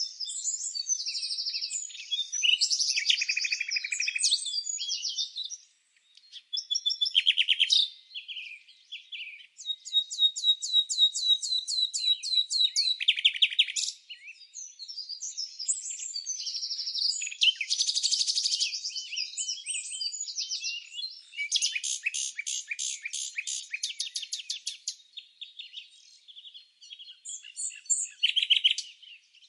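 Songbirds chirping and singing in short overlapping phrases, with several fast trills of evenly repeated notes.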